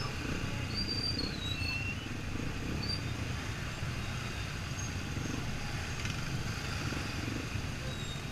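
Yamaha XTZ 125 single-cylinder four-stroke engine running steadily under way, mixed with a low, even rumble of wind and road noise.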